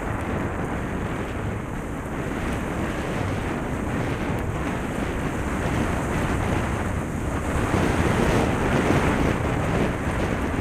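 Steady wind noise buffeting the microphone over a low rumble, growing a little louder after about seven seconds.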